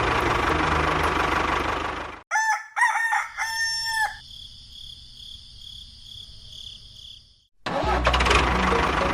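A rooster crowing, several short rising notes and then one longer held note. Before and after it there is a steady mechanical running noise with a low engine-like hum, which cuts off abruptly before the crow and comes back abruptly near the end.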